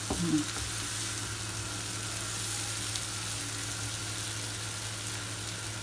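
Boiled chana dal (split chickpeas) sizzling steadily as it fries in oil in a pan, stirred and tossed with a silicone spatula.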